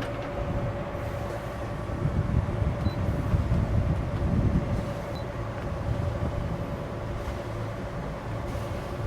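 Sailing yacht's inboard engine running steadily under way, a constant low hum, with wind buffeting the microphone more strongly from about two to five seconds in.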